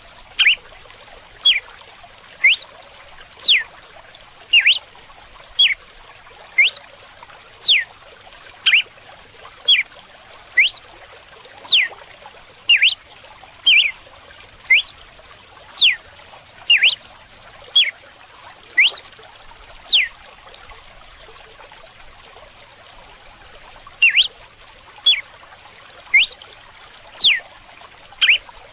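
Red-cowled cardinal singing its whip-like 'açoite' song: sharp, quick whistled notes, most sweeping steeply downward, repeated about once a second with a pause of a few seconds about two-thirds through, over steadily trickling running water.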